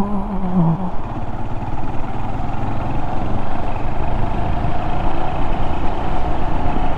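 Honda Monkey 125's single-cylinder engine running steadily while the motorcycle is ridden along a road, growing a little louder later on.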